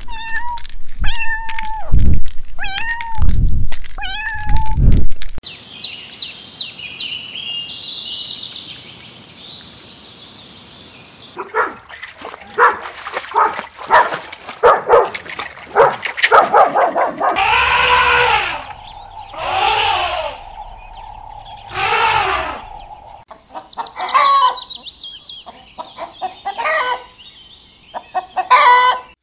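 A run of different animal sounds. A kitten mews about five times in short falling calls, then comes a quieter stretch of high hissing noise, then clicks and three drawn-out calls from another animal, and chickens cluck near the end.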